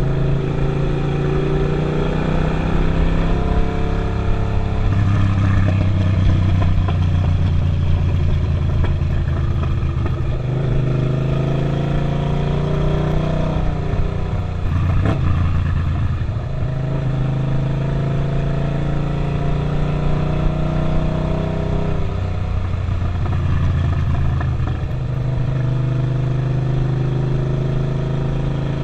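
Suzuki SV650's V-twin engine running on the move, its note stepping up and down several times as it pulls and eases off, dipping about halfway through before picking up again, over steady wind and road noise.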